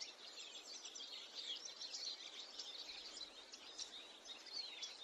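Faint chorus of small birds chirping and twittering, many short quick calls overlapping over a low hiss.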